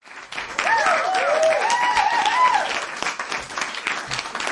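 Crowd applauding, with a voice calling out over the clapping for about two seconds in the first half.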